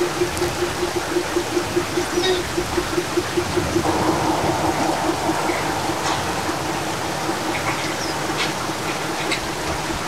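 Heavy rain pouring down, a steady rushing hiss of water. Under it a low tone pulses about five times a second, fading in the second half.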